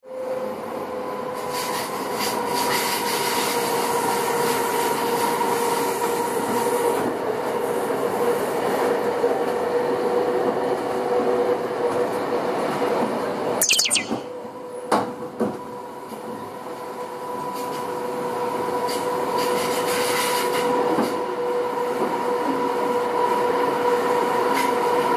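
Electric CityRail passenger train running along the track, heard from inside the carriage: steady rolling noise with a constant whine. About halfway through there is a brief, high, falling screech and a few sharp clacks, and then the noise eases for a few seconds.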